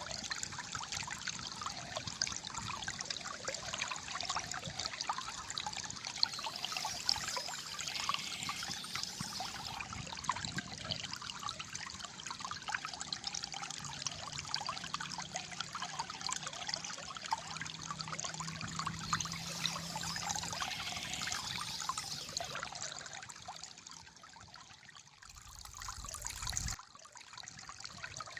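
Shallow flowing water trickling and gurgling steadily. Near the end the flow drops quieter, then a brief rush of noise cuts off suddenly.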